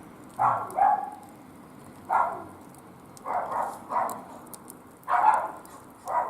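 A dog barking in short separate barks, about six of them at irregular gaps of around a second.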